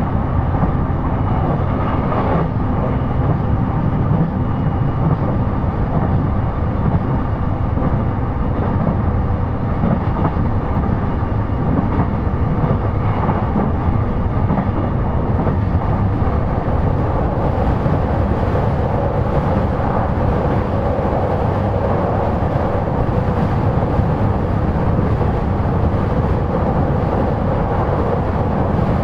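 E233 series electric commuter train running between stations, heard from inside the car: a steady rumble of wheels on the rails, with faint steady tones above it.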